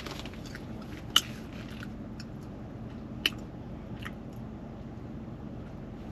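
Chewing a mouthful of burrito, with a few sharp clicks, the loudest about a second in and just over three seconds in.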